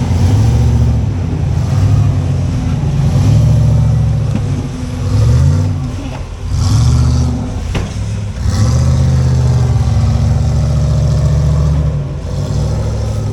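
Off-road rock-crawling rig's engine revving in repeated bursts, its pitch climbing and dropping again and again, with one sharp knock about eight seconds in.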